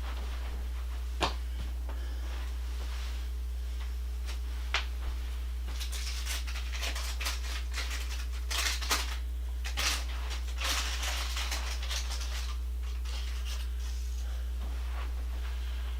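Handling noises from assembling an exercise bike: two sharp clicks in the first five seconds, then irregular rustling and scraping from about six to twelve seconds in. A steady low hum runs underneath.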